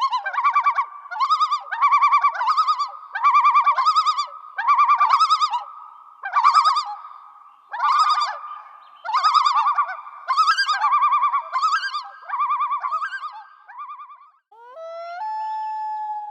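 An animal calling in a series of about a dozen warbling, trilled calls, roughly one a second. Near the end it gives way to a different call of rising, gliding whistle-like tones.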